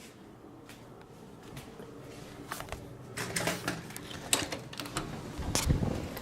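A run of sharp clicks and knocks, sparse at first and then denser and louder, with a heavier thump near the end: something being handled.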